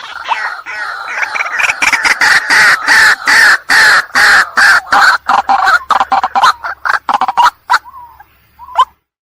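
White-breasted waterhen (ruak-ruak) lure call: a loud, rapid run of harsh repeated notes, about four a second, that builds up, then thins to a few single calls and cuts off abruptly near the end.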